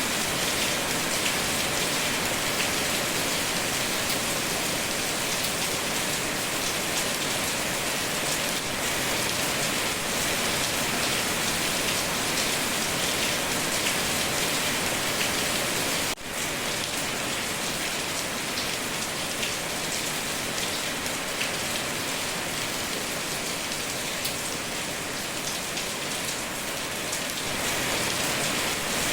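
Steady rain falling and pattering on surfaces, an even hiss with a brief drop in level about halfway through.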